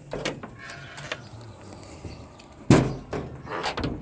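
Handling knocks and rustling with one sharp, loud thump about two-thirds of the way through, like a door being bumped or handled.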